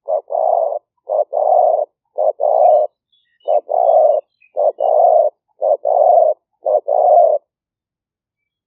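Spotted dove cooing: seven two-part coos, a short note followed by a longer one, repeated about once a second, then a pause near the end.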